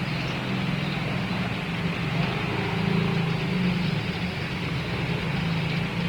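Steady vehicle running noise: a low hum with an even hiss over it.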